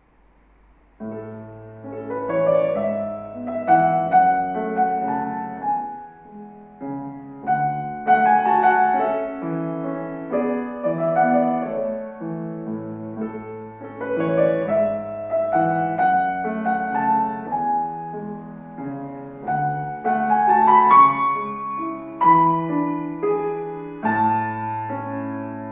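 Solo piano playing a classical piece. After a brief pause, the playing resumes about a second in with chords and flowing runs.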